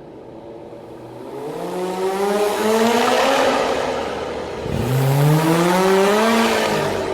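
Superbike engine accelerating hard, its pitch climbing, then dropping at an upshift about two-thirds of the way in and climbing again before fading away.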